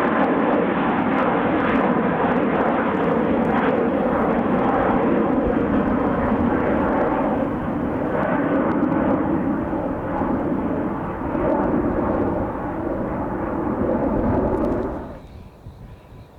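Jet airliner's engines running loud and steady close by, a few steady whining tones under the roar of the noise, cutting off suddenly near the end.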